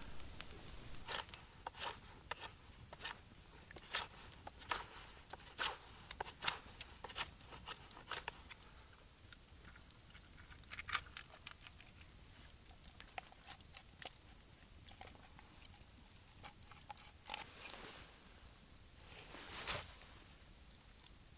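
Faint sharp clicks, coming about one or two a second for the first eight seconds and then more sparsely, with a brief softer rustle near the end.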